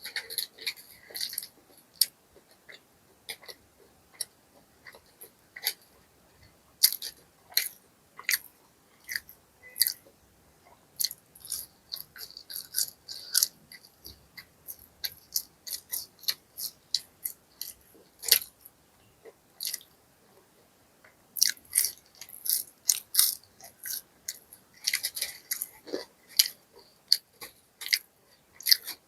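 Close-miked biting and chewing of crispy fried food, with clusters of sharp crunches and crackles and short pauses between mouthfuls.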